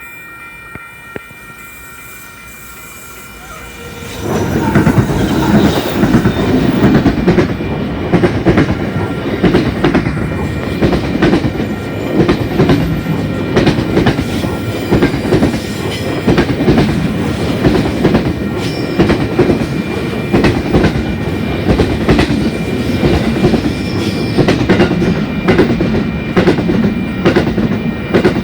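Freight train passing close by. It is low for about four seconds, then suddenly turns loud as the train arrives, and the wagons' wheels rumble and clatter over the rail joints.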